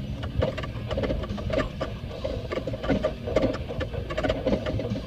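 An off-road vehicle crawling slowly over rough terrain: a low, steady engine rumble under many irregular clicks, knocks and rattles from the body and suspension.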